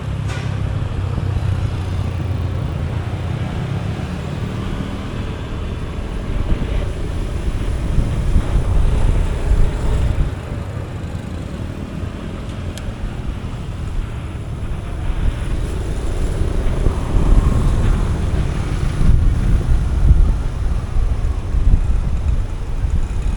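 Motorcycle engine running while riding in road traffic, with wind buffeting on the microphone. The engine and road noise swell twice, about a third of the way in and again in the second half.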